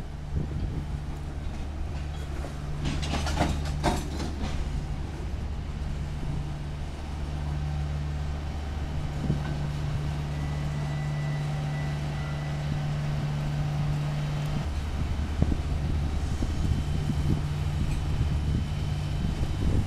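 Freight train of refrigerated boxcars rolling past at a grade crossing: a steady low rumble of wheels on the rails, with a few sharp clicks about three to four seconds in.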